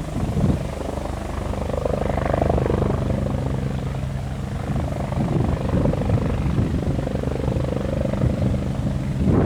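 Helicopter running: a steady hum of rotor and turbine, with a higher tone that swells and fades twice.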